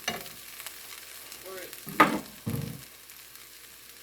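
Wheat pancit noodles frying in a pan and being stirred, with a sharp utensil knock against the pan about two seconds in.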